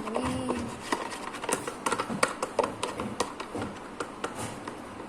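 A spoon stirring a thick mix of melted butter, cocoa powder and sugar in a bowl, knocking and scraping against the bowl in quick, irregular clicks.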